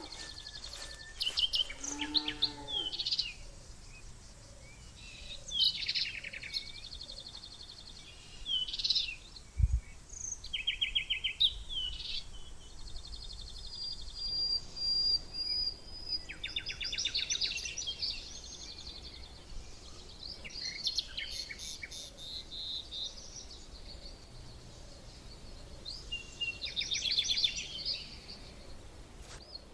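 Songbirds chirping and singing in short calls and quick trills over a faint steady background, with one long high whistle about halfway through. A single low thump about ten seconds in.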